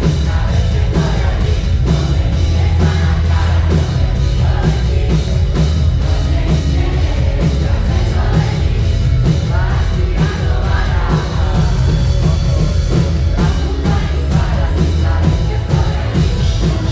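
Live pop-rock band playing loud through a concert PA, with a driving drum kit and heavy bass, and voices singing or shouting over it.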